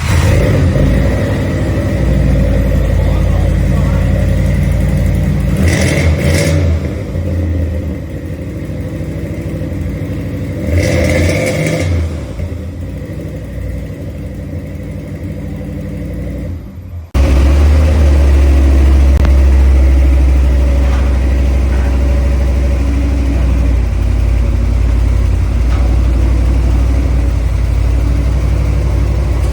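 Exhaust of a single-turbo V8 2010 Ford Mustang GT running, with two short rises in engine sound in the first half. About seventeen seconds in, a cut brings a louder, steady deep exhaust note.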